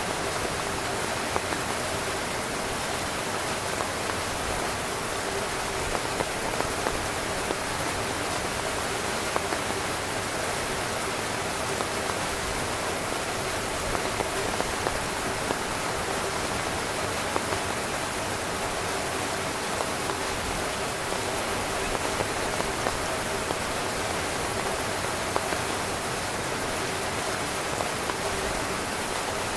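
Heavy rain falling steadily on a tent, an even hiss with scattered louder drop hits on the fabric.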